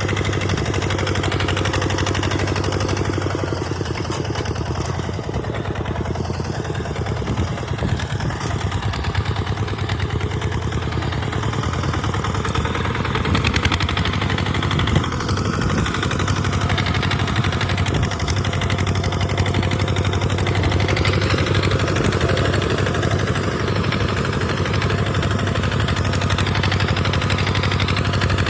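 Tractor engine running steadily under load while plowing sand, with a constant low hum.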